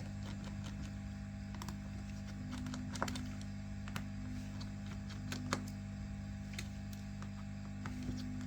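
Scattered small clicks and taps of a precision screwdriver and tiny screws being taken out of a smartphone's frame, over a steady low hum.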